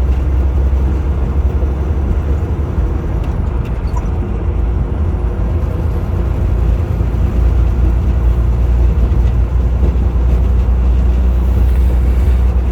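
Semi truck's engine and road noise heard from inside the cab while driving: a steady low rumble.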